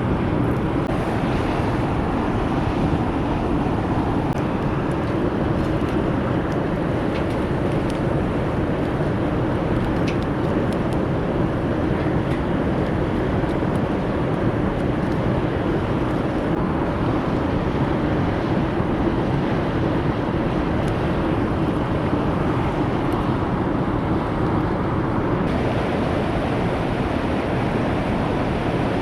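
Wood fire burning in a fire pit: a steady rushing noise with scattered small crackles.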